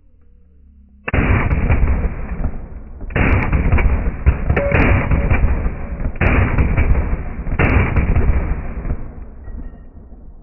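AR-15 pistol firing several strings of rapid shots, starting about a second in, each string trailing off into echo, the last one fading out near the end.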